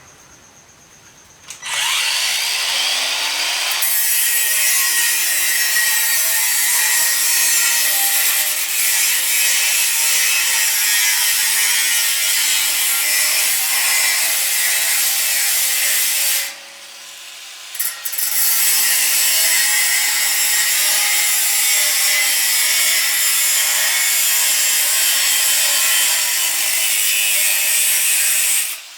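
Angle grinder with a cutting disc spinning up and cutting sheet steel: a steady loud cut that stops briefly about two-thirds of the way through, then starts again and runs on until just before the end.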